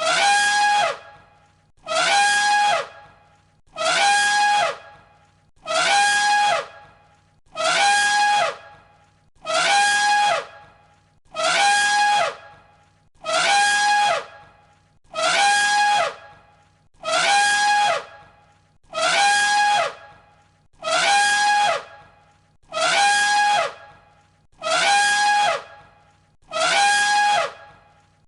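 Elephant trumpeting: the same short, high call, about a second long and falling in pitch at its end, repeated every two seconds or so as a looped recording.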